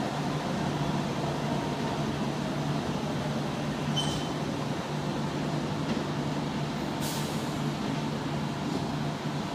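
Steady hum of a Bombardier Innovia APM 100 LRT car and a Kawasaki C151 MRT train standing at the station before departure. A brief high chirp sounds about four seconds in, and a short hiss of air about seven seconds in.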